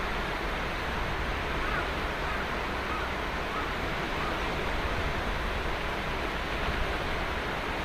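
Ocean surf washing steadily onto a sandy beach, a continuous even rush of breaking waves with a low rumble beneath.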